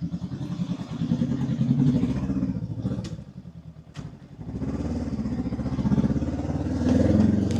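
Honda 500 parallel-twin motorcycle engine running on the move. It eases off about three seconds in, with a sharp click, then picks up again a second or so later and runs steadily.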